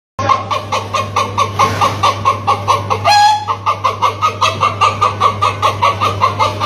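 A chicken clucking rapidly, about five short clucks a second, with a longer squawk about three seconds in, over a steady low hum.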